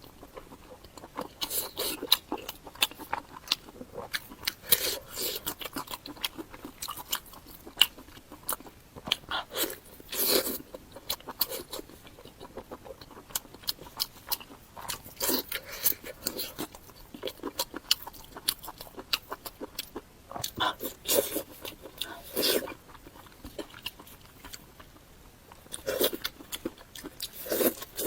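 Close-miked eating sounds: a person biting and chewing food, with crunchy, wet mouth noises. They come in irregular clusters a few seconds long, with short quieter pauses between.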